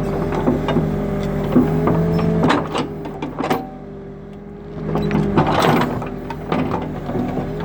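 New Holland backhoe loader's diesel engine running under work, with scattered knocks and clanks. About a third of the way in it drops quieter for roughly two seconds, then picks up again.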